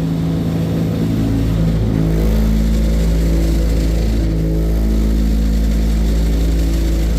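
Truck-mounted salt spreader running steadily, dumping the last of the salt from its hopper onto the ground.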